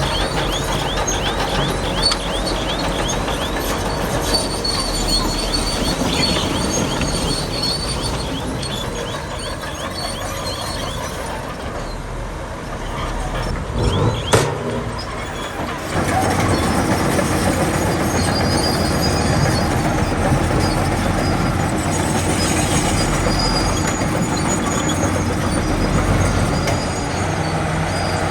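Bulldozer's diesel engine running at work, its steel crawler tracks clanking with high squeaks. A sharp knock comes about 14 seconds in, and the engine gets louder from about 16 seconds on.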